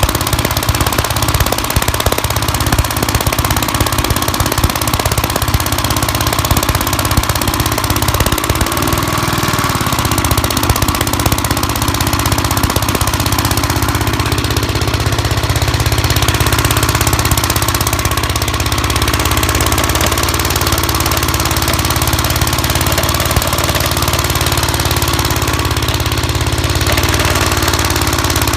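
1959 Gravely Model L's single-cylinder engine running steadily with a rapid knocking beat. About nine seconds in its pitch shifts briefly, and the engine then runs on more smoothly.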